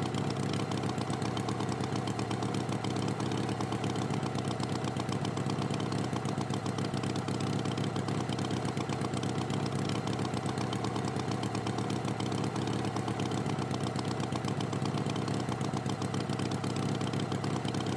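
Tractor engine idling steadily, an even rapid chugging that holds the same pitch and level throughout.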